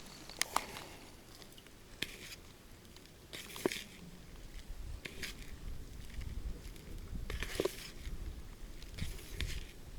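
A few sharp clicks and short rustling noises at irregular intervals, the loudest clicks about half a second in and a little past three and a half seconds.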